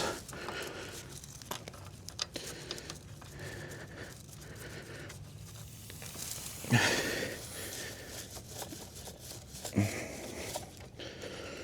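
Faint rustling and handling noises, with a short, louder knock about seven seconds in and a smaller one near ten seconds.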